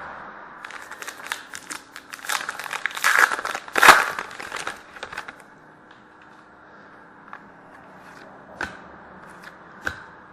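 Plastic-foil wrapper of a hockey-card pack crinkling and tearing as it is opened, a dense crackle that peaks about four seconds in. It is followed by a few light clicks of cards being handled.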